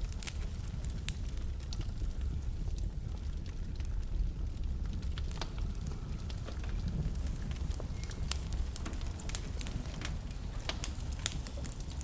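Wood fire burning in a fireplace: a steady low rumble of the flames with irregular sharp crackles and pops from the burning logs, coming more thickly in the second half.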